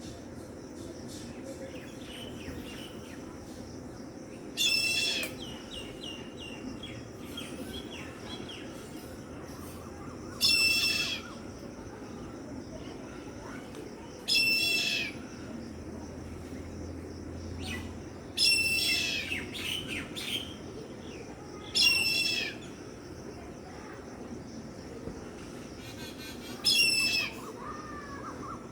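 Young Indian grey hornbills calling: six loud, high-pitched calls, each lasting under a second, spaced about four to five seconds apart. A steady low background noise runs beneath them.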